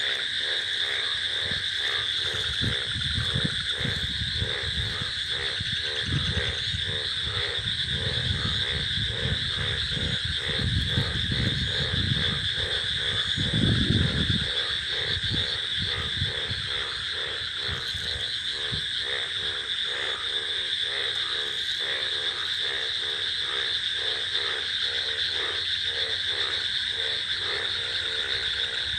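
A nighttime chorus of frogs calling in a fast, pulsing rhythm over a constant high-pitched trilling. Low rumbles rise and fade through the first half, the strongest about 14 seconds in.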